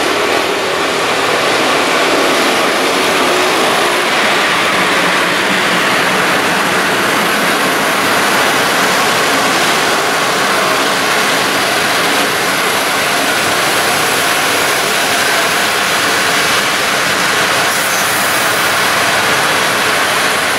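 Electric-locomotive-hauled passenger train running through the station at speed, with its coaches passing close by: a loud, steady rush of wheels on the rails.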